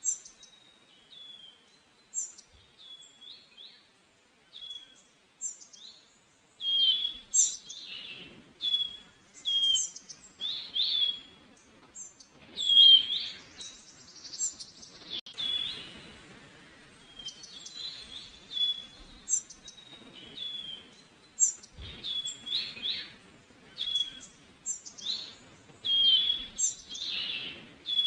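Small songbirds chirping outdoors: many short, high, repeated calls, sparse at first and busier from about seven seconds in, with several birds calling over one another.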